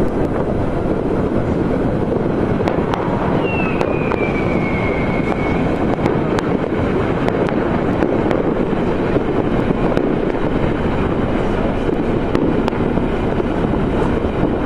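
New Year's Eve fireworks and firecrackers going off across a city: a steady rumble of many scattered bangs, with sharp pops throughout. About four seconds in, a whistling firework sounds for about two seconds, falling in pitch.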